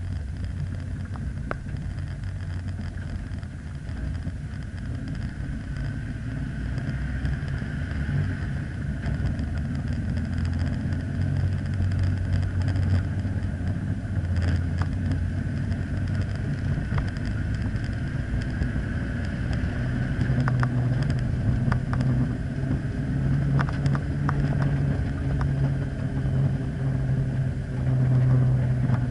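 Rover V8 engine of a 1993 Land Rover Defender 130, heard from inside the cab as it drives away at low speed. The engine note rises and drops as it is taken through the manual gears and gets louder toward the end, with a few short clicks and rattles.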